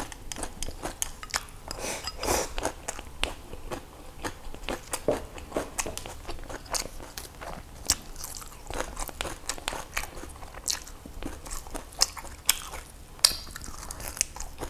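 Close-miked chewing of a mouthful of rice, fish and raw leafy greens, with many small irregular crunches, clicks and wet mouth sounds.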